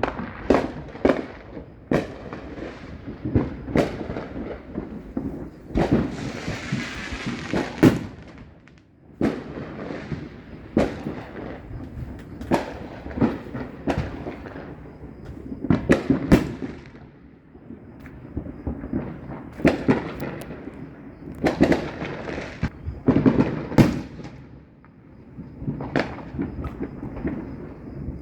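Neighbourhood fireworks going off in quick succession: a steady run of sharp bangs and booms, with a stretch of crackling about six seconds in.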